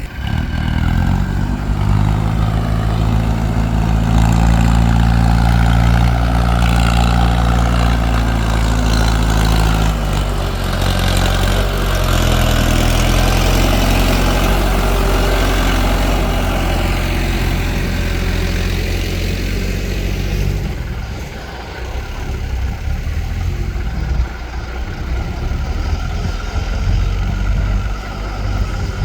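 Diesel tractor engine running hard under load, its low steady note shifting pitch partway through, then easing off about twenty seconds in.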